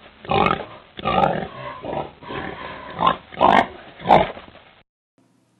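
A pig grunting and oinking in a run of separate grunts, which stop about five seconds in.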